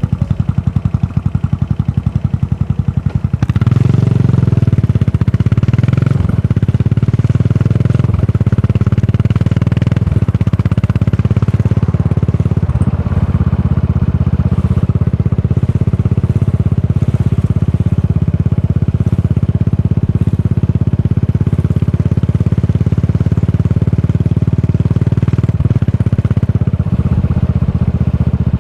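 Yamaha SR400's air-cooled single-cylinder four-stroke engine running through a Goods tapered cone slip-on muffler, a steady thumping exhaust beat. The exhaust gets louder and fuller about three and a half seconds in, then holds steady.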